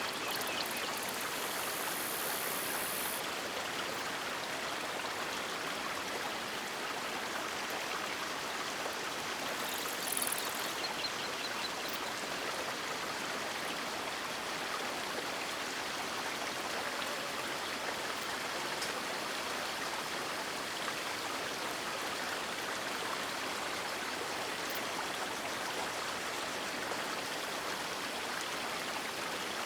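River water flowing steadily, an even rushing hiss with a short brighter hiss about ten seconds in.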